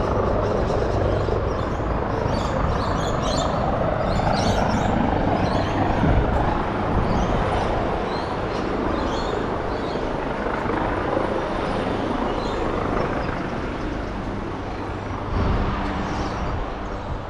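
Wind rushing and buffeting over the microphone while riding, with a steady low hum underneath. Scattered high chirps come through in the first half.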